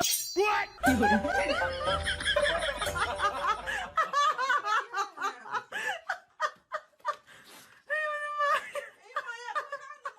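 Laughter: several overlapping voices laughing hard at first, then thinning out into short, high-pitched bursts of laughing.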